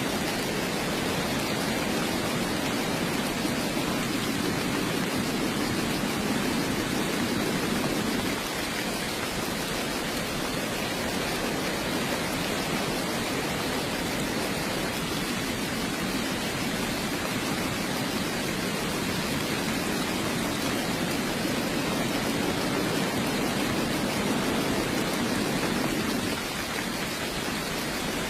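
Steady heavy rain, an even hiss of many drops, with a fuller low part that eases a little about eight seconds in and again near the end.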